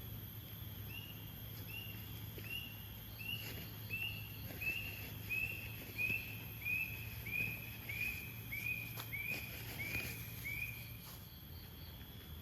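A forest bird calling a long series of clear, evenly spaced notes, about one and a half a second, growing louder in the middle and fading near the end. Under it runs a steady high insect drone.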